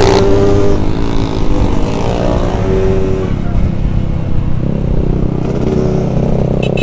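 Yamaha RX-King two-stroke single-cylinder motorcycle engine under way, its pitch rising and falling with the throttle for the first few seconds, then settling into a lower, steadier note over low wind rumble.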